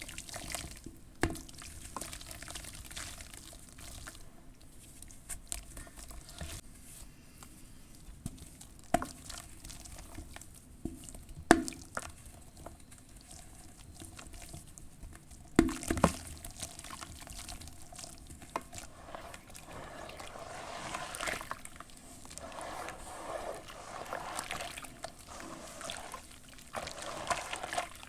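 Charcoal ash lumps crumbling and being dipped in water: scattered crunchy crackles with wet dripping and trickling. There are a few louder knocks in the first half, and denser stretches of crumbling near the end.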